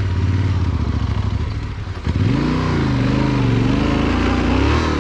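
Yamaha Ténéré 700's parallel-twin engine running at low revs. From about two seconds in, its pitch rises and wavers up and down as the throttle is opened and eased.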